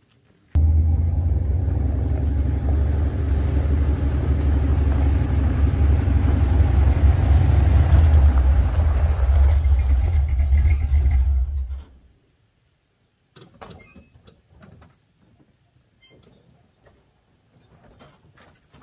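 Pickup truck driving, a steady low rumble of engine and road noise that cuts off suddenly about twelve seconds in, followed by a few faint knocks and clicks.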